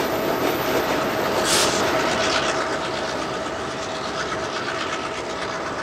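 Freight train rolling past, its wheels clacking over the rail joints, with a steady tone underneath and a brief hiss about a second and a half in.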